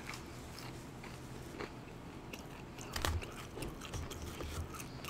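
Quiet close-miked eating sounds: faint mouth clicks and smacks from chewing, with a slightly louder crunch about three seconds in.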